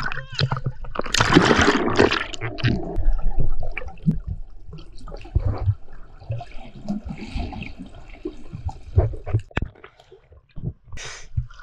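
Sea water splashing and sloshing around a swimmer, with a loud rush of water about a second in.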